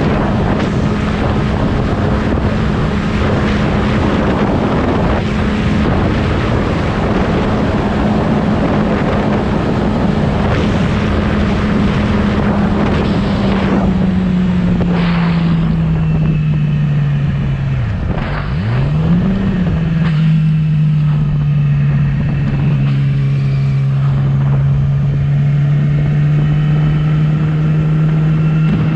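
Yamaha R6 600cc inline-four sport bike engine running at a steady cruise, with heavy wind rush over the microphone. The engine note eases lower partway through, drops briefly and picks up again about 18 seconds in, then holds steady.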